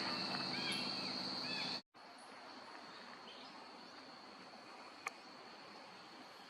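Steady, high-pitched drone of forest insects with a few short bird chirps over it. About two seconds in, the sound cuts out briefly and returns quieter, with the insect tone fainter, and one sharp click comes about five seconds in.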